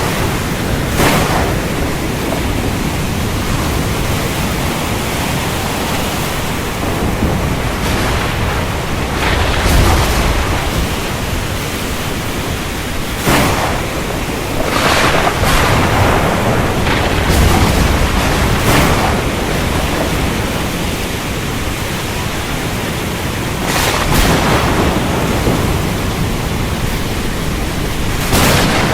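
Steady heavy rain in a thunderstorm, with thunder breaking in as repeated sharp cracks and deeper low rumbles about a third and two-thirds of the way through.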